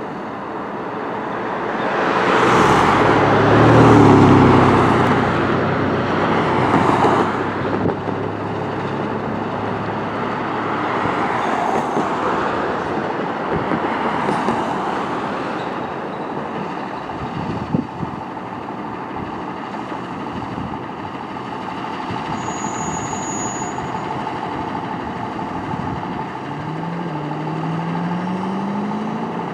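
Road traffic: vehicles passing close by, the loudest a few seconds in, then a steadier traffic hum. Near the end a pitched tone rises slowly.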